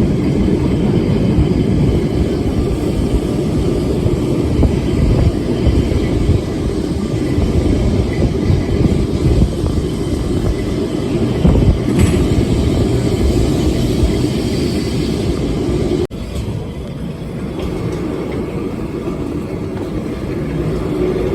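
Electric tram rumbling along its rails, heard from on board: wheels and running gear giving a heavy, steady low rumble. There is a brief click about twelve seconds in, and about sixteen seconds in the sound drops abruptly, then runs on quieter.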